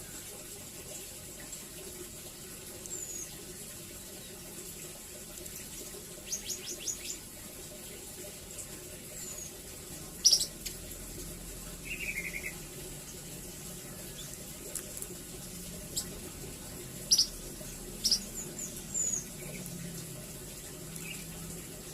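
Velvet-fronted nuthatch giving scattered short, high, sharp chirps and brief rapid trills, the sharpest note about ten seconds in, over a steady background hiss.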